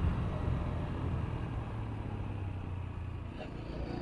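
Motorcycle riding along a road: a steady low engine and road rumble with a noisy haze of passing air.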